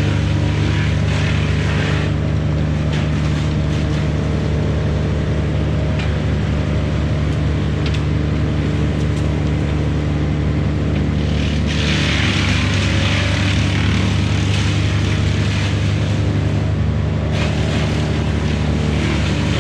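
Sany SY95 excavator's diesel engine running steadily under a low, even hum. For about five seconds in the middle a louder rushing noise rides over it, then drops back.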